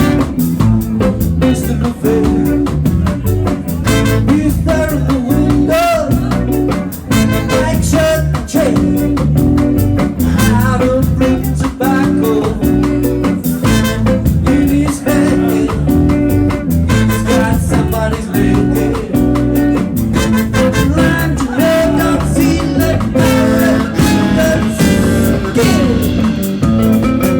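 Rock band playing live: guitars and drums keeping a steady beat, with a singing voice at times.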